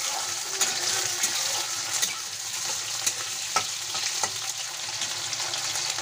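Potato wedges and cumin seeds sizzling in hot oil in a kadai, stirred with a metal spatula, with occasional sharp clicks over a steady hiss.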